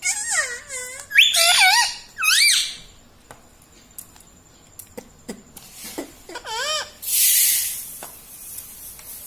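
Pet ring-necked parrot calling in high, squeaky notes that glide up and down in pitch, in two quick runs at the start and another a few seconds later. A short, harsh, noisy burst comes about seven seconds in.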